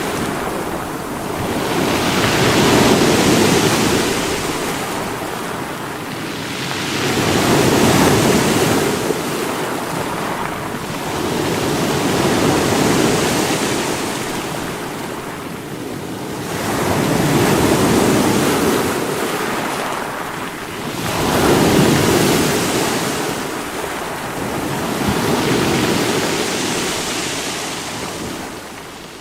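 Sea waves breaking on rocks, each surge swelling and washing back about every four to five seconds.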